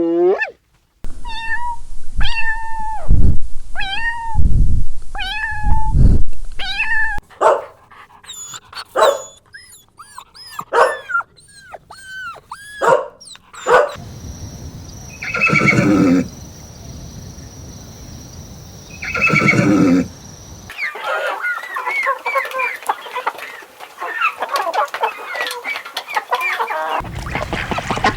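A series of different domestic animal calls, one after another: first about five pitched calls, each rising and falling, about a second and a half apart; then a string of shorter, varied calls; two longer, rougher calls; and a dense flurry of high chirping near the end.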